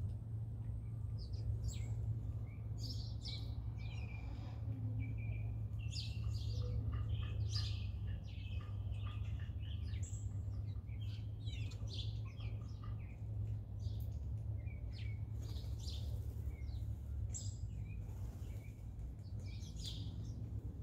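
Birds chirping and calling in many short, quick notes, scattered irregularly, some in close runs, over a steady low hum.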